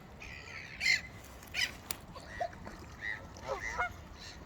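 Birds calling: a series of short, separate calls, about six or seven, over a faint steady background.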